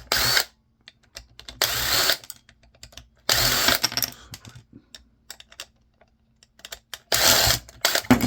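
Power screwdriver with a long bit backing out screws from a camcorder's housing, running in four short bursts with small clicks and rattles of loose parts in between.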